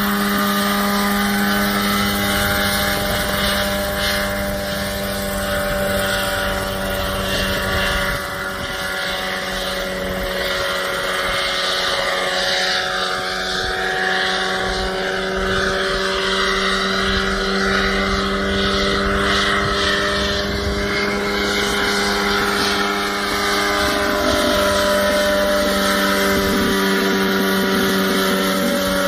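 Small homemade coaxial ultralight helicopter's engine and rotors running steadily, its pitch drifting slightly, with a brief dip in level about eight seconds in.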